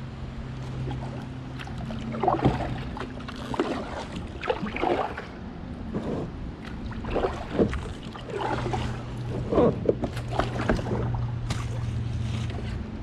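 Kayak paddle strokes dipping and splashing in the water, roughly one a second, over a steady low hum.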